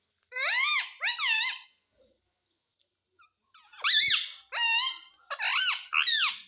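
A pet talking parrot calling out in a shrill mimicked voice. There are two calls near the start and, after a pause, three more. Each call rises and then falls in pitch.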